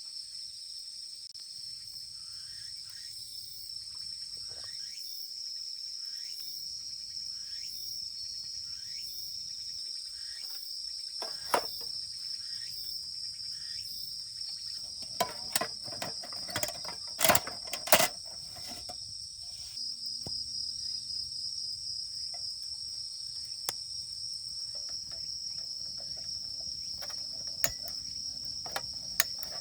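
Night insects, likely crickets, chirping steadily in a high, continuous trill. A cluster of sharp clicks and knocks comes about halfway through, with a couple more single clicks near the end.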